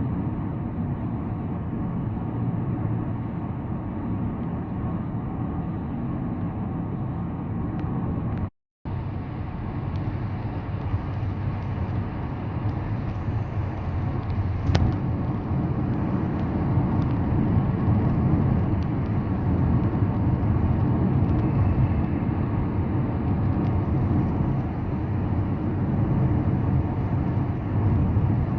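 A car driving at road speed: steady tyre and engine rumble, heaviest in the low end. It drops out completely for a split second about nine seconds in, and there is one sharp click about fifteen seconds in.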